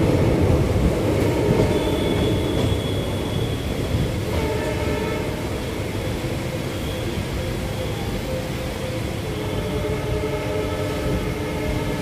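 Passenger train running along the track: the steady rumble of the coach, with faint steady whining tones joining about four seconds in.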